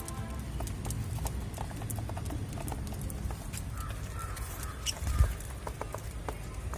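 Pet budgies moving about their cage: scattered light clicks and taps, with a brief chirp a little before the middle and another about five seconds in.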